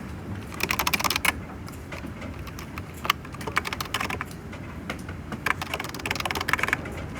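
Typing on a computer keyboard: three bursts of rapid key clicks with short pauses between, over a steady low hum.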